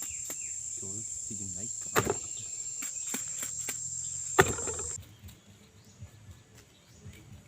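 Insects droning on one steady, high, shrill note, with two sharp knocks, one about two seconds in and one past four seconds. The drone cuts off abruptly after about five seconds, leaving only faint background sound.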